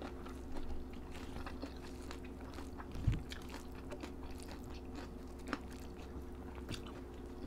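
Close-up chewing and eating sounds: small crunches and mouth clicks as people eat rice, curry and raw vegetables by hand, over a steady low hum. One dull thump about three seconds in.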